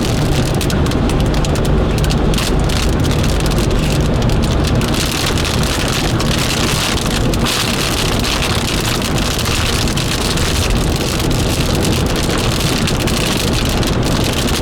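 Rain beating on a moving car's roof and windshield, heard inside the cabin as a dense patter over low road and engine rumble. The patter grows heavier about five seconds in.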